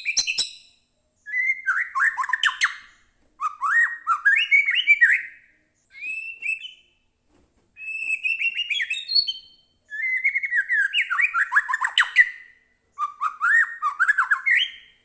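White-rumped shama (murai batu) singing: about seven fast, varied phrases of one to two seconds each, separated by short pauses, packed with rapid chattering and gliding whistled notes.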